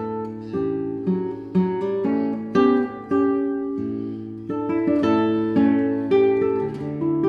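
Acoustic guitar music: single notes and chords plucked at an unhurried pace, each ringing and fading before the next.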